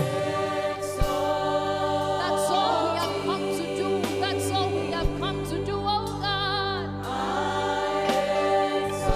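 Live worship music: sustained keyboard chords with voices singing over them, one voice with a strong vibrato about two thirds of the way through.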